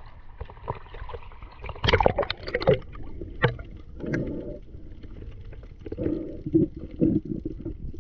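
Water splashing and bubbling around a swimmer getting into the sea to snorkel. There is a cluster of louder splashes about two seconds in, then muffled, irregular bubbling.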